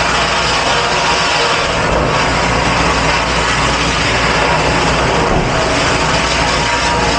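Steady, loud running noise of a commercial dish pit: machinery and spraying water in one unbroken rush.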